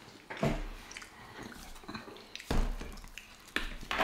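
A person biting into and chewing a chili cheese sausage dog in a soft bun: a few short, wet, separate bites and chews, the loudest about two and a half seconds in and near the end.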